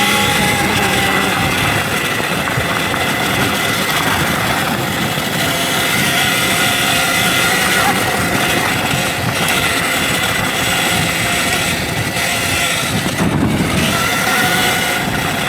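Electric dirt bike riding a trail: the motor's whine drifts up and down in pitch with the throttle over a steady rush of wind and trail noise.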